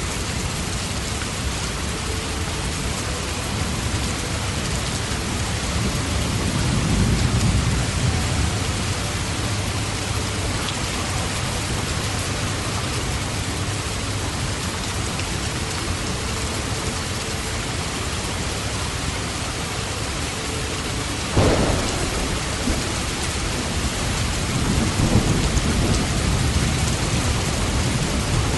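Steady heavy rain hissing, with thunder: a low rolling rumble that swells and fades, a sharp thunderclap about two-thirds of the way through, and another rumble after it.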